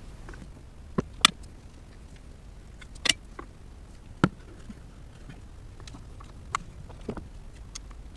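Irregular sharp clicks and knocks of hand tools and parts being handled while coil packs are worked on, about six in all, the loudest about a second in and around three and four seconds, over a low steady hum.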